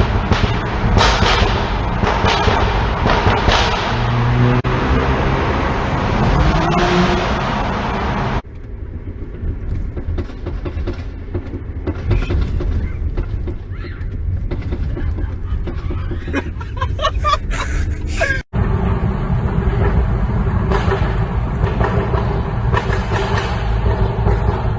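Exhaust of a 2013 BMW 328i's N20 turbocharged four-cylinder through an M Performance Exhaust with the resonator deleted, revved several times with the pitch rising. Short crackling pops come on the throttle lift a little before the last clip. The sound jumps abruptly twice between separately recorded clips.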